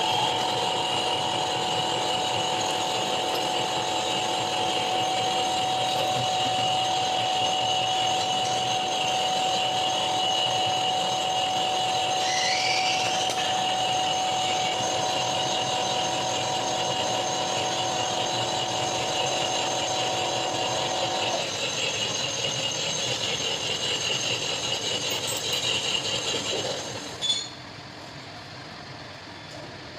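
Machine tool running with a steady whine and cutting hiss as metal is machined. Its lowest tone drops out about two-thirds of the way through, and the rest shuts off with a click near the end.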